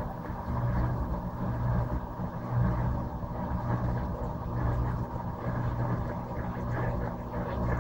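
Electrolux LM13Q top-load washing machine running with draining under way: a steady low motor hum that swells and eases every second or so.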